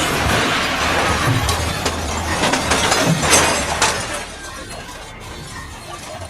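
A sudden, very loud crack of a nearby lightning strike, the thunder crackling and rumbling for about four seconds before it fades.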